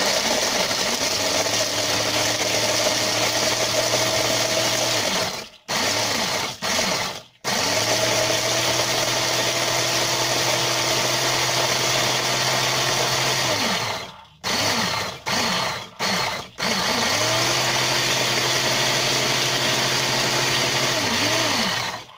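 Small food processor grinding chocolate sandwich cookies into crumbs. The motor runs three long stretches of several seconds, spinning up and winding down each time, with a few short pulses between them.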